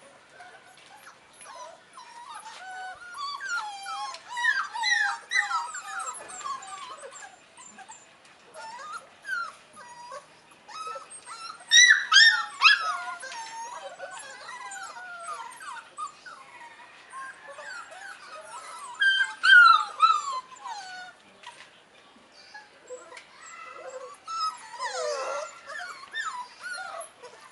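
A litter of hungry puppies whining and whimpering, many high squeaky cries overlapping, with louder yelps about twelve and twenty seconds in.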